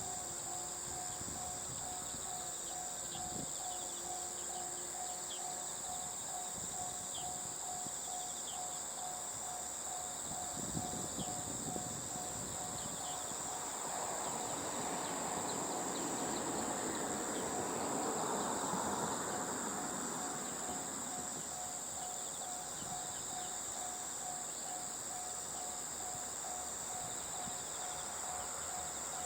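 Steady high chirring of crickets and other insects. Under it a tone repeats in quick pulses, and in the middle a broad rushing noise swells and fades.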